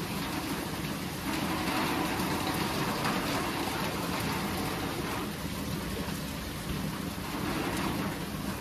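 Heavy rain falling steadily, a dense even patter of drops, with a low continuous rumble underneath.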